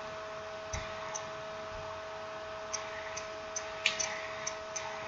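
Light, irregular clicks and taps of small smartphone parts and tools being handled during reassembly, bunched together near the end, over a steady electrical hum.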